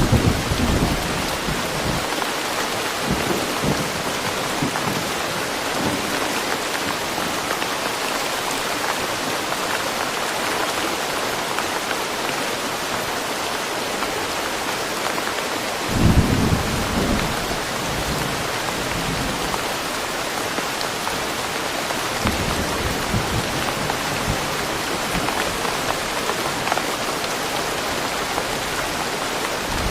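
Steady rain falling in woodland, an even hiss throughout. Short low rumbles come at the start and again about halfway through, with a weaker one a little later.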